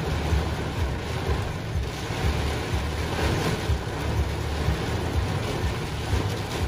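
Heavy rain pounding on a vehicle's roof and windshield, heard from inside the cab, as a steady loud wash with uneven low rumbling from wind gusts underneath.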